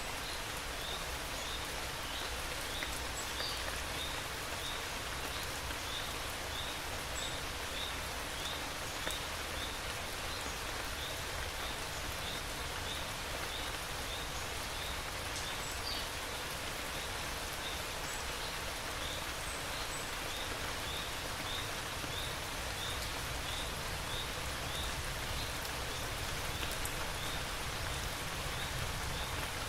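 Steady rain falling, with a short high chirp repeating about every two-thirds of a second and a few scattered higher calls.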